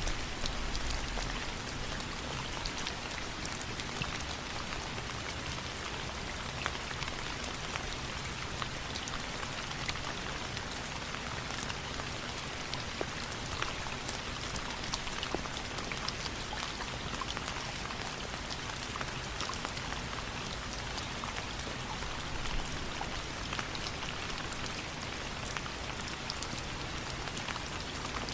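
Steady rain falling, an even hiss scattered with many small sharp ticks.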